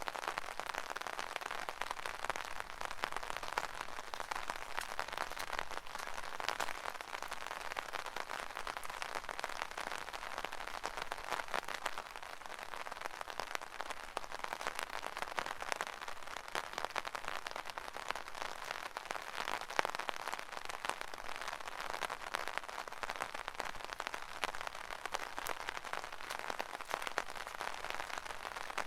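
Steady rain falling on an umbrella canopy: a dense, even stream of small drop hits that does not let up.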